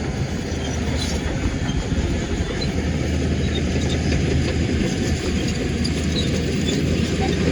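Heavy diesel earthmoving machinery running steadily, with a deep engine drone and a rough rumbling clatter.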